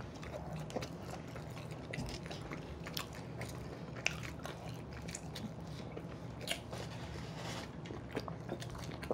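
Close-miked chewing and biting of soft glazed yeast donuts: quiet, wet mouth sounds and scattered small clicks over a faint low hum.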